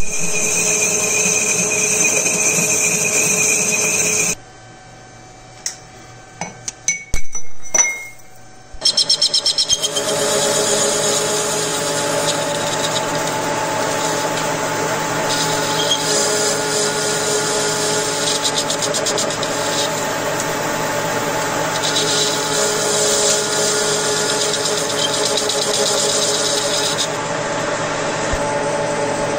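A power tool's motor runs steadily, then stops about four seconds in. A few clicks and knocks follow, then the motor starts again with a quick run of ticks as it spins up and keeps running, its high hiss rising and falling at times.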